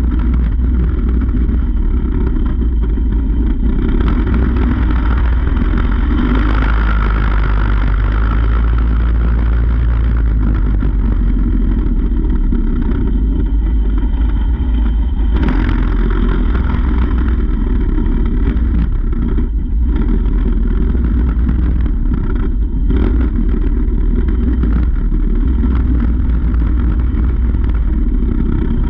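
Mini bike's small engine running steadily under way, with heavy wind rumble on the microphone. There are a couple of sharp knocks, about fifteen seconds in and again about eight seconds later.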